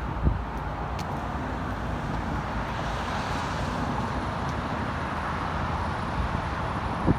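A car passing on a snowy road: steady tyre and road noise that swells around the middle, with a short thump just after the start and another near the end.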